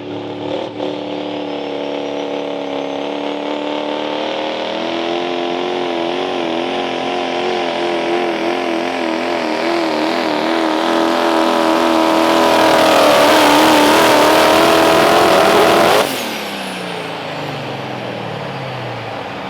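Turbocharged Pro Stock diesel 4WD pickup engine running flat out under load while pulling the sled, its note steady at first, then wavering and growing louder. About 16 seconds in it cuts off suddenly, and the engine and turbo wind down in falling pitch.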